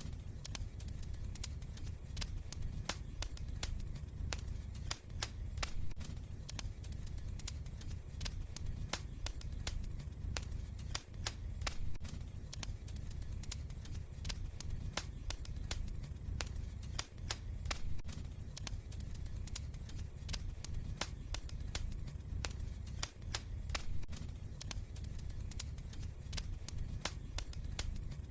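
Wood fire crackling: frequent, irregular sharp pops and snaps over a steady low rumble of the flames.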